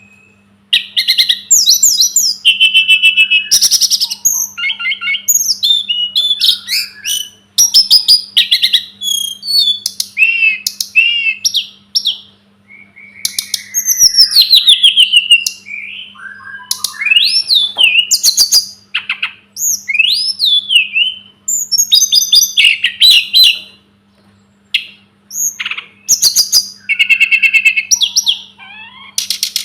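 Tledekan gunung (sulingan gunung) songbird singing continuously: a rapid, varied string of high-pitched whistles, trills and chirps, with sliding notes and short pauses between phrases. A faint steady low hum runs underneath.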